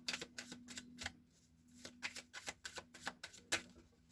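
Tarot cards being shuffled and handled: clusters of quick, sharp card snaps and flicks, with a short pause about a second and a half in. A faint steady hum lies under it.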